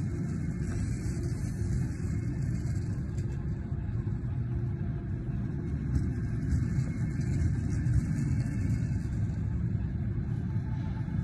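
Old single-level sleeping car running on the rails: a steady low rumble with a few faint knocks.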